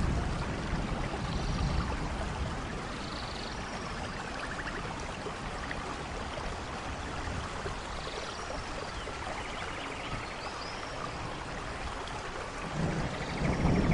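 Steady rainfall, with low thunder rumbling in the first couple of seconds and building again near the end. A few short high chirps are scattered through it.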